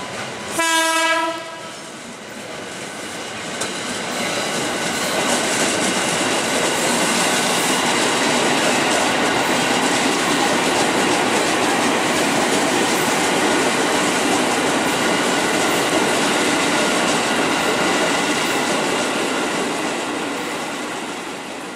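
An electric train gives one short horn blast about half a second in, then runs close past. The noise of its wheels on the rails builds over a few seconds, holds steady and loud, and eases off near the end.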